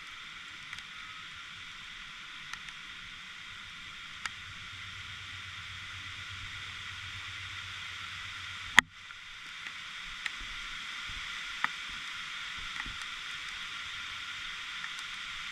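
Heavy rain falling, a steady hiss with scattered sharp ticks of drops or hailstones striking close by, and one loud knock of a hit about nine seconds in.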